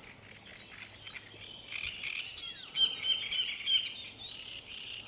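Several songbirds twittering, with many short chirps and quick whistled sweeps that grow busier about a second and a half in.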